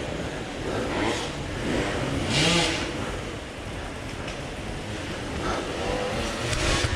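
Dirt bike engine running, with a short rev about two and a half seconds in over a steady rumble.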